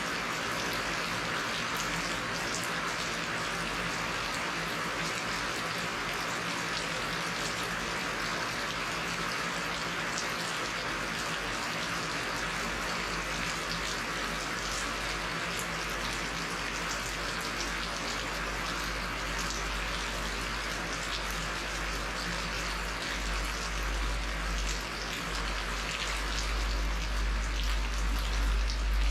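Steady rain falling, with separate drops heard through the even hiss. A deep low rumble swells up over the last few seconds.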